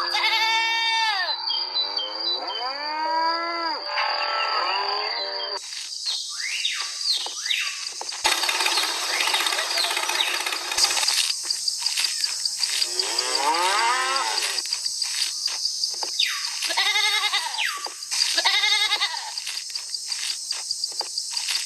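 Cattle mooing: a run of drawn-out calls, each rising then falling in pitch, over a steady hiss. The background changes abruptly a few times, as if spliced from separate recordings.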